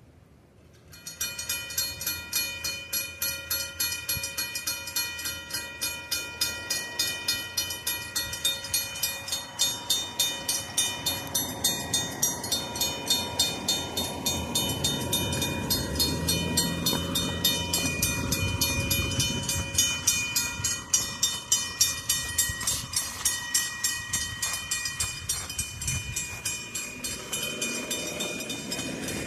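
Railroad crossing warning bells start clanging about a second in: mechanical bells struck in a steady rhythm, one clanging a little slower and lower than the other, which is taken as a sign that bell is about to die. A low rumble swells and fades in the middle.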